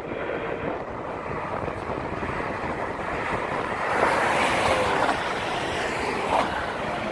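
A vehicle on the move, running steadily with wind on the microphone, growing louder for a second or so about four seconds in.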